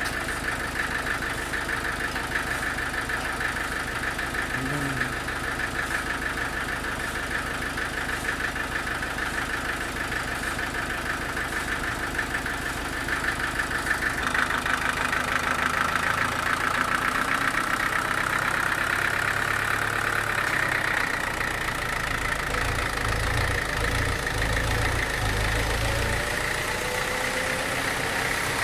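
Sawmill machinery running steadily under engine power. About halfway through its note changes and a high whine slowly rises in pitch.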